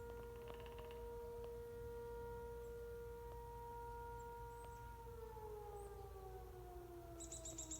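Sentry 10V outdoor warning siren sounding a tornado warning: a steady tone that, about five seconds in, begins to wind down with the pitch sliding lower. Near the end a rapid, high-pitched chattering trill starts up over it.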